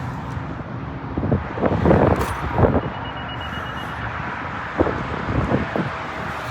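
Vehicle traffic rumbling steadily, with a few scattered knocks and a short rapid high-pitched beeping about three seconds in.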